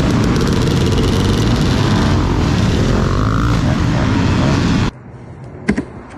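Dirt bike engine running at speed with a loud rushing noise over it, heard through a GoPro. About five seconds in it cuts off abruptly to a much quieter background with a couple of short knocks.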